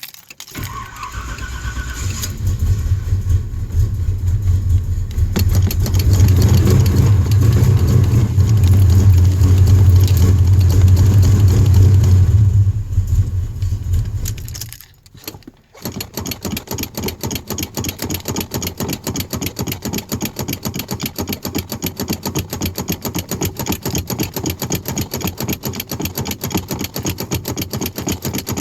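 Car engine cold starting after sitting for 16 days, with the gas pedal pumped: it cranks, catches and runs loud and rough for several seconds, then fades and dies about 14 seconds in. The starter then cranks again with an even rhythmic chugging for the rest.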